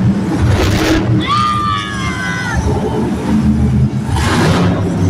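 Monster truck engine running loud and steady, heard across an arena. About a second in, a high wailing tone with overtones slides down a little in pitch and holds for about a second and a half.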